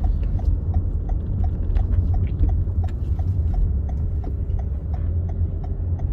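Car cabin: steady low rumble of the car's engine with a crisp, regular clicking running over it at about four ticks a second.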